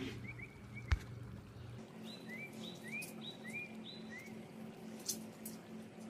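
A small bird chirping repeatedly, short rising chirps in quick succession, over a low steady hum. A single sharp click about a second in.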